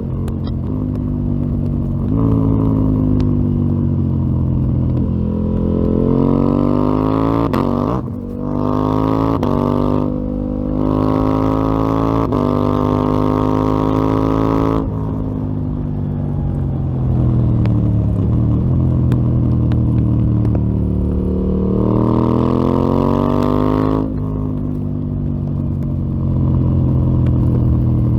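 KTM 890 Duke R's parallel-twin engine through a full Akrapovic exhaust system, on the move. The revs climb through the gears with brief breaks at the shifts about 8 and 10 seconds in, then fall away. The engine pulls up again about 22 seconds in and cuts off sharply a couple of seconds later as the throttle shuts.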